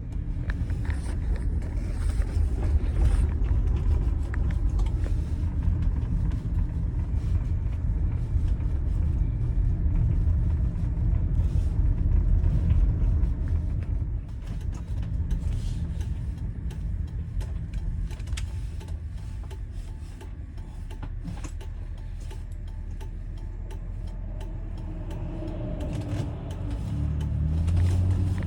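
Chevrolet Venture minivan's 3400 V6 running while the van drives, a steady low rumble of engine and road noise with scattered small knocks; near the end the engine note rises as it accelerates.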